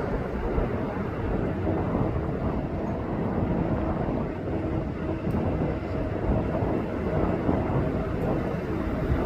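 Jet airliner engines running with a steady rumble and a faint constant whine.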